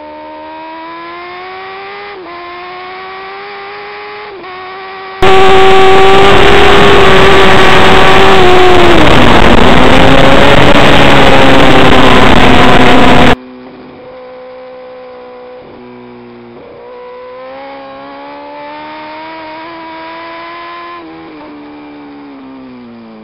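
Onboard sound of an inline-four sportbike engine at high revs on a race track. The pitch climbs and then drops sharply at quick upshifts, about 2 and 4.5 seconds in. For about eight seconds in the middle, a much louder, distorted wind roar covers the engine while its pitch falls and climbs again under braking and acceleration.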